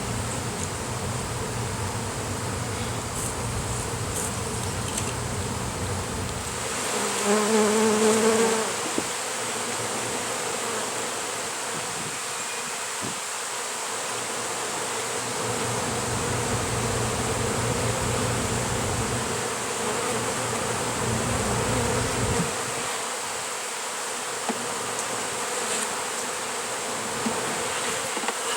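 Honey bees buzzing steadily around their disturbed colony. About seven seconds in, a bee passes close by with a louder buzz lasting a second or two. A low rumble comes and goes underneath.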